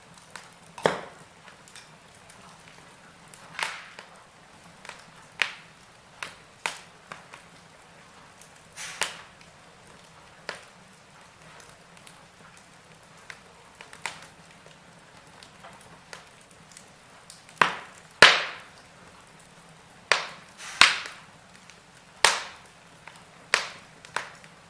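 Wood fire crackling in a fireplace: irregular sharp pops and snaps every second or two over a faint steady hiss, with the loudest cluster of pops in the second half.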